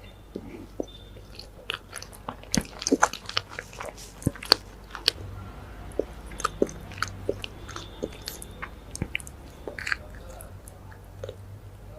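Close-miked eating of a chocolate cupcake: bites and chewing with many small crisp crunching clicks at an uneven pace, thinning out near the end.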